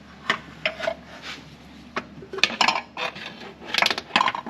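Irregular sheet-metal clanks and rattles, some with a short ring: a 14-inch air cleaner housing being handled and tried on the carburetor. It will not sit down on the carburetor.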